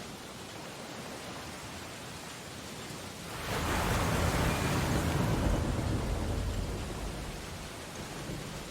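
Ocean surf: a steady wash of water, then a wave breaks about three seconds in, swelling loudly and washing out over the next few seconds.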